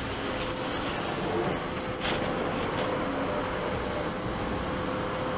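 A 2011 Milltronics VM-2016 CNC vertical machining center running: a steady mechanical hum and hiss with a faint constant whine, and a couple of light ticks.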